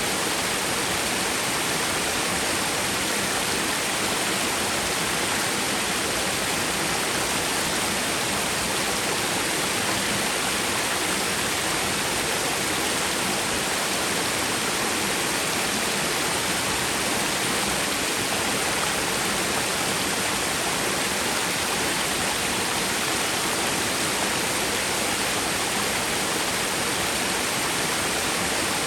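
Small twin waterfall on a mountain stream, water falling and rushing in an even, unbroken wash of sound.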